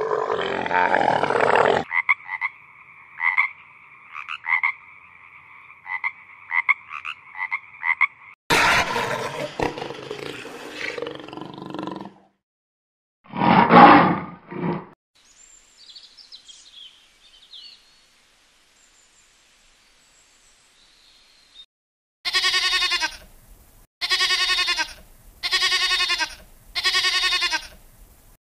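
A series of different animal calls, one after another: a short noisy call, a run of quick repeated pitched calls, a loud single call about halfway through, faint high chirps, then four drawn-out pitched calls near the end.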